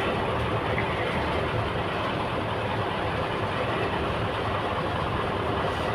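Heavy diesel engine running steadily under a constant mechanical din, with no change through the stretch.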